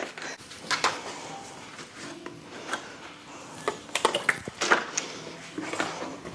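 Irregular light knocks and clatter of fridge shelves, bins and containers being handled and set down while a fridge is emptied and cleaned.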